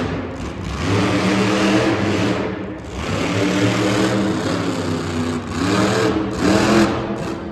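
Monster truck engine revving, its pitch rising and falling in several surges, loudest about a second in, in the middle and near the end.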